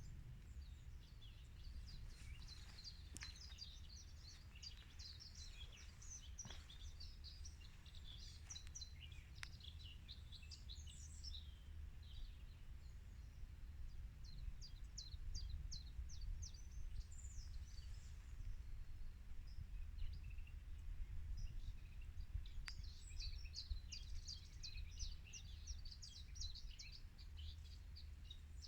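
Several small birds chirping and singing, with quick high notes and trills, over a steady low rumble.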